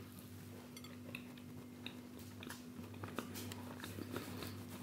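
Quiet chewing of a soft pastry tart with a cheesecake filling, with small wet mouth clicks that come more often after about two seconds. A faint, steady low hum sits underneath.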